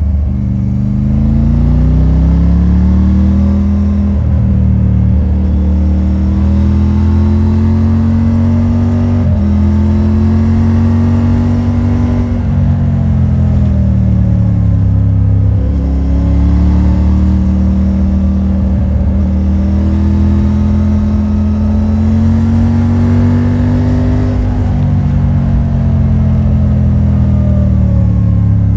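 Triumph Tiger 900 Rally Pro's 888 cc inline three-cylinder engine through its stock exhaust, pulling under way. The engine note rises and falls repeatedly, with a sudden pitch change every few seconds as it changes gear.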